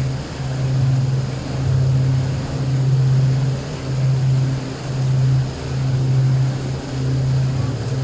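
Boat engine running with a low steady drone that swells and dips in loudness about once a second.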